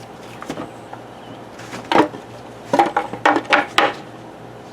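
Wooden knocks and clatters as pine hive-box side boards are handled and set against each other: a light knock, a louder one about two seconds in, then a quick run of five or so knocks.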